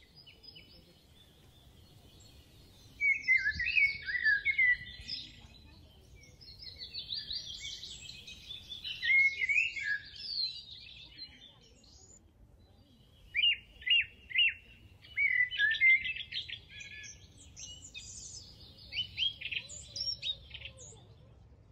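Songbirds chirping and twittering in spells of quick, high calls, with quieter gaps of a second or two between them.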